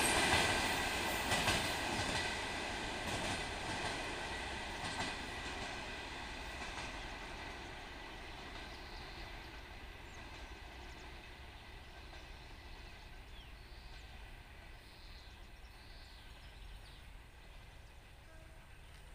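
A passenger train's coaches rolling away along the track, their wheels knocking over the rail joints. The sound fades steadily until it is faint near the end.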